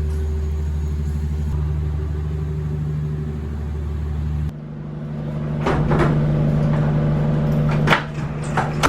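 Steady low hum of a vehicle engine, changing abruptly about four and a half seconds in. A few sharp clicks and knocks come over it near the end.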